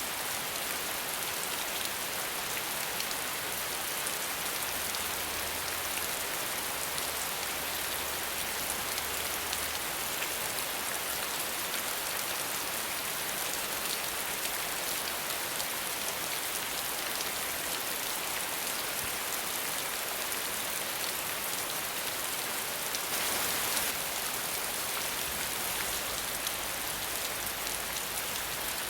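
Steady rain without thunder, an even, dense hiss of drops falling on a surface. It swells briefly about three-quarters of the way through.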